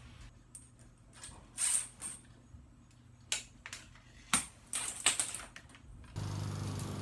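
Light metallic clinks and jingles, about a dozen scattered over six seconds, as small metal parts are handled. About six seconds in, a steady low hum starts suddenly.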